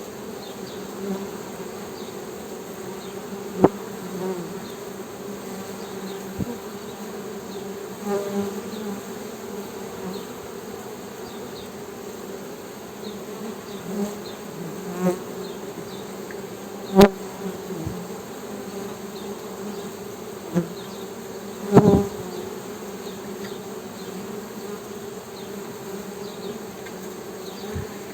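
Honey bees humming: a steady low drone of many wingbeats. A few brief louder knocks and close buzzes stand out above it.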